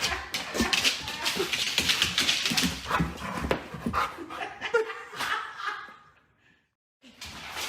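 A dog whining and yipping in many short calls in quick succession, stopping about six seconds in.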